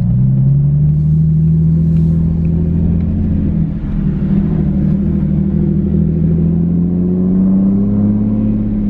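Single-turbo BMW 135i straight-six heard from inside the cabin, pulling gently with its pitch slowly rising. There is a short drop in level about four seconds in, then the pitch climbs again.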